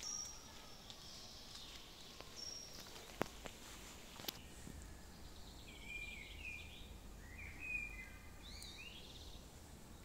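Birds calling faintly, with a few short, sharp chirp phrases in the second half. Several single footstep clicks on a dirt path in the first half.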